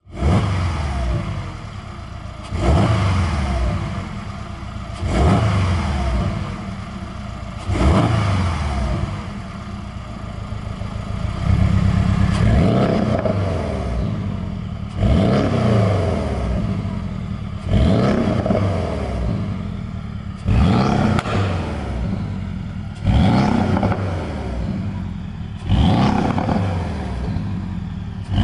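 Porsche 718 Boxster S turbocharged flat-four, fitted with an aftermarket dual valved exhaust, revved in sharp blips about every two and a half seconds, the revs falling back after each. One rev is held for about three seconds near the middle.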